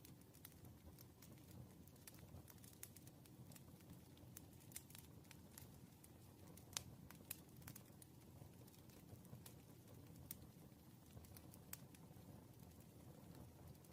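Faint, irregular light clicks and taps of someone working at a desk over a low, steady room hum, with one sharper click about halfway through.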